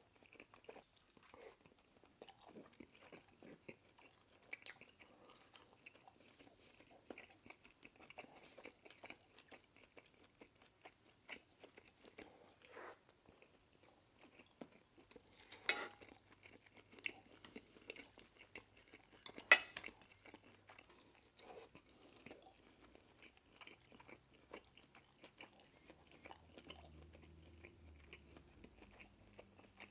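Close-miked chewing and biting of a person eating, a steady run of small mouth clicks, with two sharper knocks, likely utensil against dish, about halfway through, the second one the loudest.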